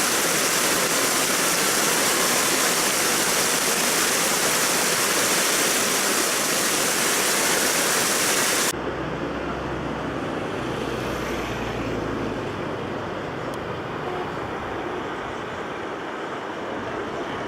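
Waterfall rushing, a dense steady hiss of falling water. About nine seconds in it cuts suddenly to a quieter, duller rush with a low rumble.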